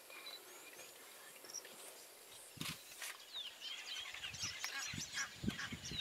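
Birds calling, sparse at first and then many short chirping calls in the last couple of seconds, over low rumbling bumps.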